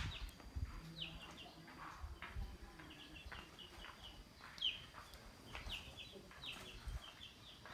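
Birds chirping outdoors: short, high chirps that drop in pitch, repeated over and over. A low rumble on the microphone comes and goes beneath them.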